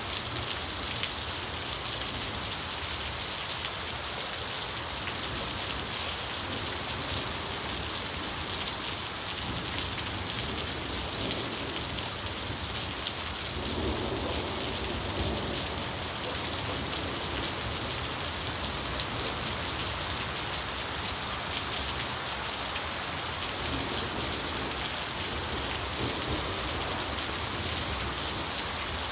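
Steady rain falling and pattering on surfaces, with a rumble of thunder about halfway through.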